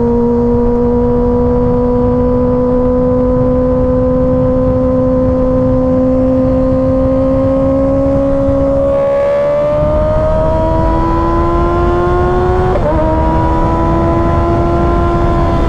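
Kawasaki Ninja ZX-6R inline-four engine running under way, its pitch slowly climbing, then rising faster about nine seconds in. Near thirteen seconds the pitch dips sharply and settles lower, as at a gear change, over a steady low rush.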